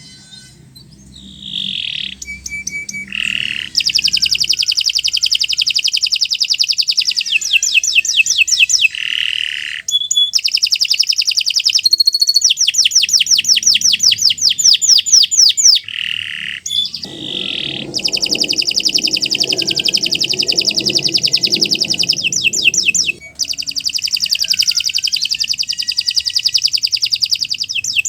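Domestic canary singing a long, continuous song of rapid trills and rolls, with short breaks between phrases. This is the long, busy song kept by owners as a master song for teaching young birds.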